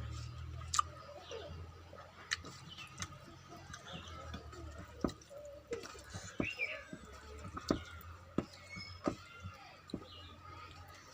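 Close-miked eating of rice with small fish curry: wet chewing, lip smacks and sharp mouth clicks at an irregular pace, over a faint steady hum.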